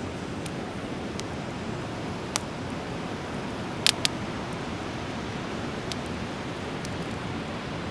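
Driftwood fire crackling: a few scattered sharp pops, the loudest a quick double pop about four seconds in, over a steady rushing hiss.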